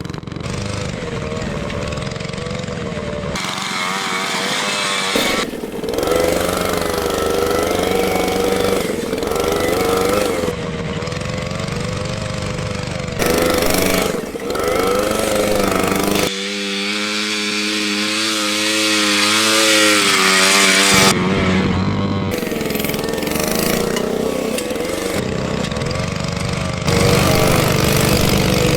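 Engines of a home-built three-engine motorcycle running and revving hard over rough ground, their pitch rising and falling. The sound changes abruptly several times, as one clip cuts to the next.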